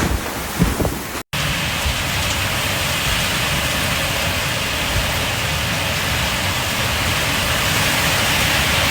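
Gusty wind noise for about a second, then after a sudden cut, heavy rain pouring down steadily.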